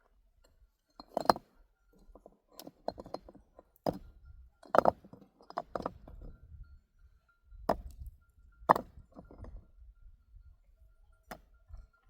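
About a dozen sharp clinks and knocks of hard objects striking one another at irregular intervals.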